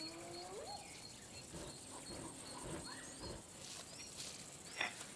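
Spotted hyena giving a whoop call that rises in pitch and ends about a second in, over repeated high chirps from birds or insects.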